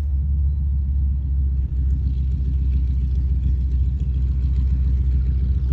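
A steady, low engine rumble that keeps an even level throughout.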